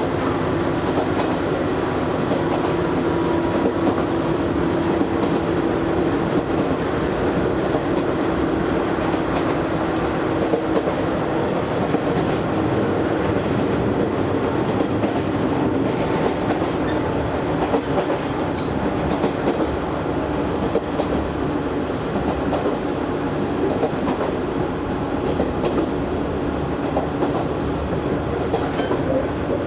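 Izu Hakone Railway Series 3000 resistance-controlled electric train running, heard from inside the car: continuous wheel-and-rail noise with clacking, under a low steady hum that fades after about seven seconds.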